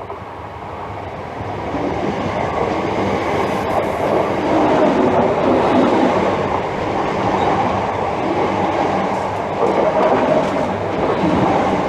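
Electric multiple-unit passenger train passing along the line, growing louder over the first two seconds as it comes in, then a steady running noise of wheels on rail.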